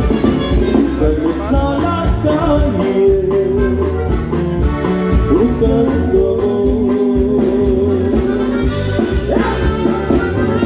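Live norteño band playing an instrumental passage: a saxophone carries the melody over bass and a steady dance beat.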